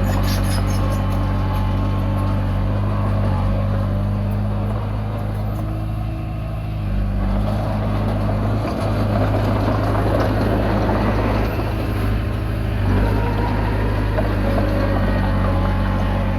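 Komatsu D20P crawler bulldozer's diesel engine running steadily under load as it pushes soil, its note dipping and shifting in the middle before settling back.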